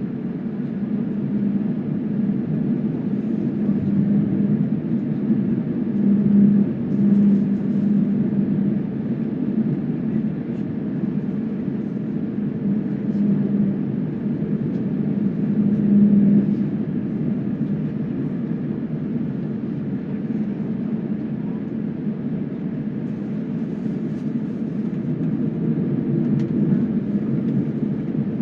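Airliner cabin noise: the jet engines and airflow make a steady low drone inside the passenger cabin, swelling a little twice.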